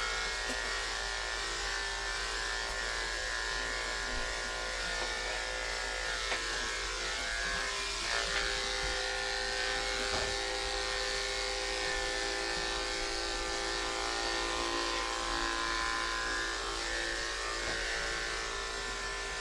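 Andis electric pet clippers running with a steady buzz while shaving a cat's coat.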